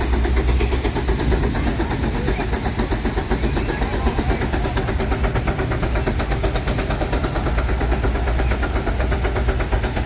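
Steam traction engine working hard under load while pulling, its exhaust chuffing in a fast, even beat over a deep rumble. The beat grows sharper about halfway through.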